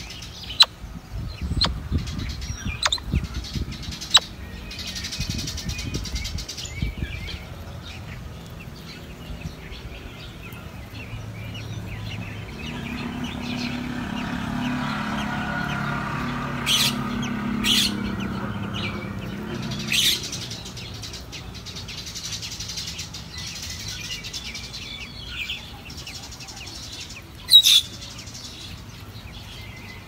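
Birds chirping: scattered short, high chirps, a few in the first seconds and a louder handful later, over a low steady background.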